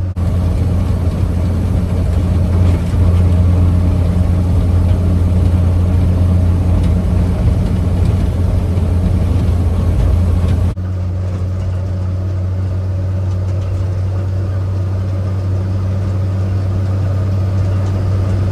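1953 Chevrolet 6100 truck's straight-six petrol engine running steadily while driving, with road noise. The sound drops abruptly about eleven seconds in, then carries on steady.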